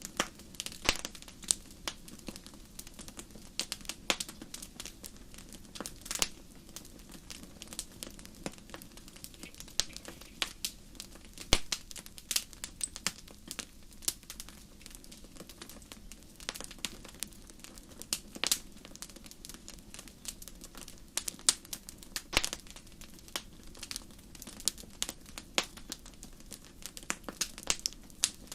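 Wood fire burning in a fireplace, crackling and popping irregularly with sharp snaps over a low steady rush of the flames.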